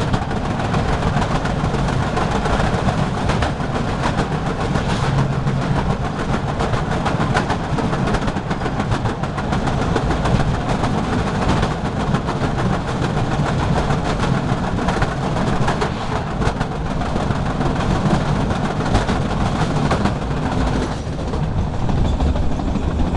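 Metre-gauge train running: a steady rumble with the rapid clatter of wheels over rail joints.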